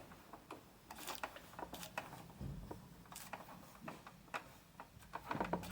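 Faint, scattered light clicks and taps of small objects being handled, with a soft rustle between them.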